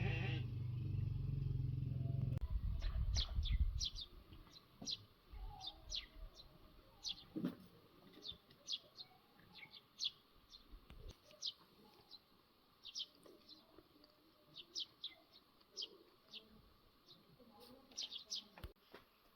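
Small birds chirping, with short high chirps that fall in pitch, coming in quick irregular clusters. A loud low rumble fills the first two to four seconds and then drops away.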